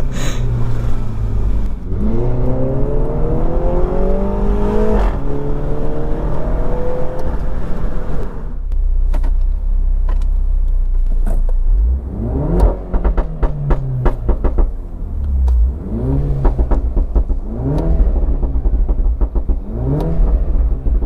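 Mini Cooper S John Cooper Works turbocharged four-cylinder engine and exhaust under hard acceleration in manual sport mode: two long pulls with the pitch rising, then a run of short rev rises and drops about every two seconds, with sharp pops and crackles from the exhaust among them.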